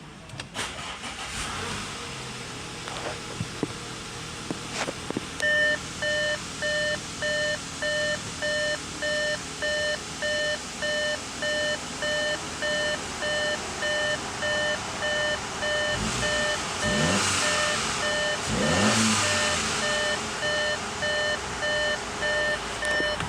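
Audi Q5 engine starting and then idling steadily, with a dashboard warning chime beeping about twice a second from about five seconds in. The engine is revved up and back down twice near the end.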